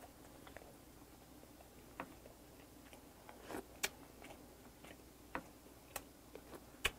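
Faint close-up chewing of a mouthful of rice and soy-sauce-marinated sea hare, with a handful of short, sharp mouth clicks and smacks spaced unevenly.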